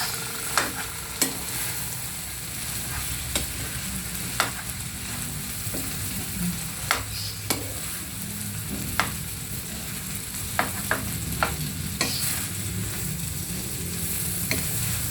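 Food frying in a pan, sizzling steadily, while a spatula stirs it and knocks sharply against the pan a dozen or so times at irregular intervals.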